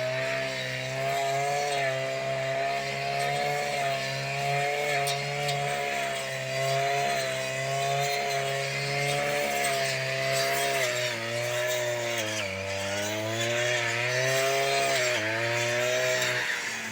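An engine running steadily, its pitch dipping and rising a couple of times in the last few seconds.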